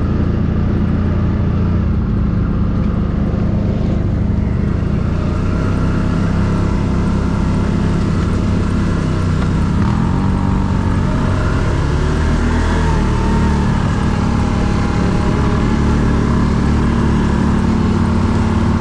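Quad bike (ATV) engine running under way, steady throughout, its pitch rising briefly about ten seconds in and then settling back.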